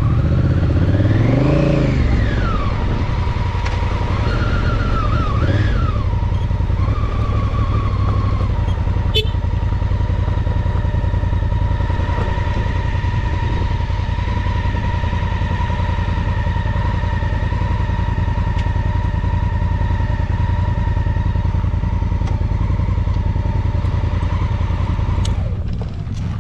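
Honda Africa Twin's parallel-twin engine running under the rider. Its pitch rises and falls a few times in the first seconds as the bike rolls along, then it settles into a steady run with a thin whine above it. The sound dips briefly near the end.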